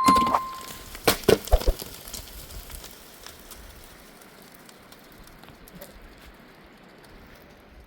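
A metal clang ringing briefly at the start and a few sharp knocks about a second in, then a wood fire crackling faintly with a low hiss.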